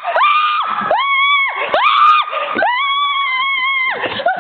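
A woman screaming in fright: about four drawn-out, very high-pitched screams in a row with short breaks between them, the last one the longest.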